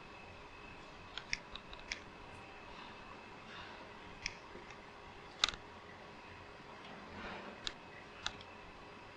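Scattered sharp clicks and light taps from hands working on a fluorescent light fixture's parts, about eight in all, the loudest about five seconds in.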